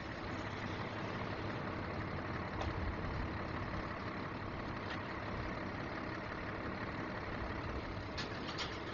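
Strong wind buffeting the microphone: a steady rumbling roar, with a few sharp clicks near the end.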